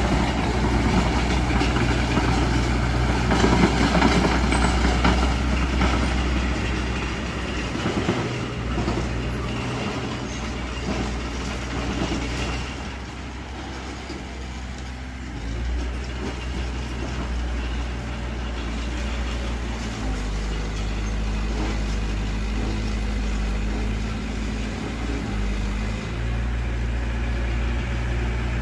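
Mitsubishi BD2F bulldozer's diesel engine running under changing load, with crawler tracks clanking. The engine and clatter are loudest in the first several seconds, ease off near the middle, then settle into a steadier hum.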